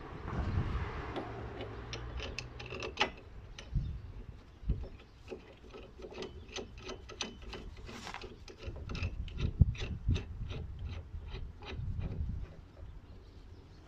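Hand tools working metal on a car's front wheel bearing assembly: scraping and rubbing with sharp clicks, which come in a run of about two or three a second in the second half.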